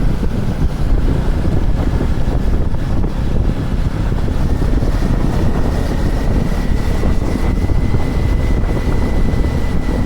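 KTM Duke 250 motorcycle's single-cylinder engine running under way, with heavy wind rush on the camera microphone. A thin whine climbs slowly in pitch over the whole stretch.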